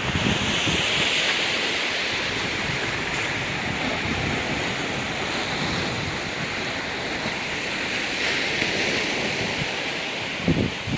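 Ocean surf washing on a rocky beach, a steady hiss that swells near the start and again later on, with wind buffeting the microphone in gusts near the end.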